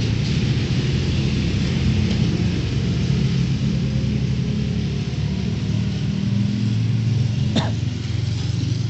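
Town street ambience after heavy rain: a steady low rumble under an even hiss, with one short sharp click near the end.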